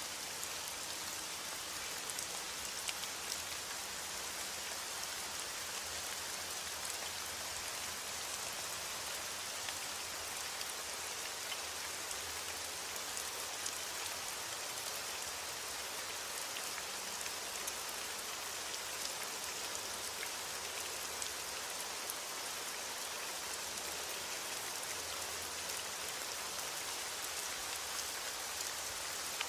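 Heavy rain against a window: a steady, even hiss with scattered small ticks of drops.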